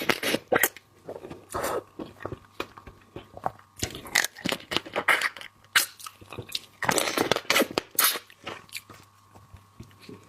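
Bites and crunches into marinated crab shell with chewing in between, in irregular bursts.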